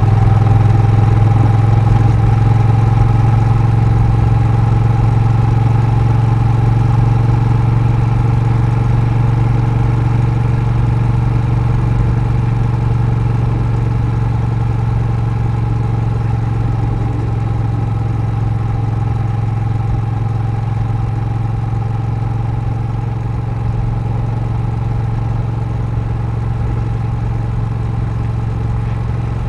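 Honda Rebel 1100's parallel-twin engine running steadily: a strong, even hum with a faint constant whine above it, easing slightly quieter over the stretch.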